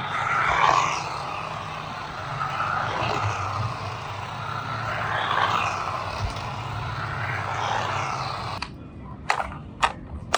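Small electric motor and plastic gears of a 1:20 scale remote control toy car running, its pitch rising and falling as it speeds up and slows. It stops about eight and a half seconds in, and a few sharp clicks follow.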